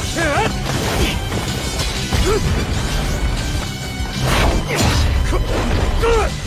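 Anime battle sound effects: a dense run of hits, crashes and whooshes over dramatic music.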